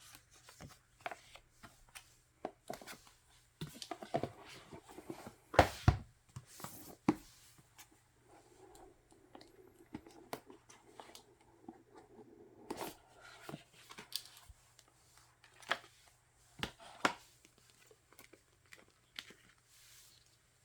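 Album packaging, photocards and paper inserts being handled: scattered rustles and sharp taps, the loudest about six seconds in.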